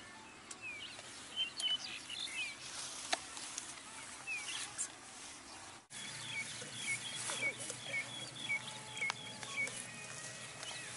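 Small birds chirping outdoors: scattered short high chirps, then, after a sudden cut about six seconds in, a steady run of repeated calls at roughly two to three a second.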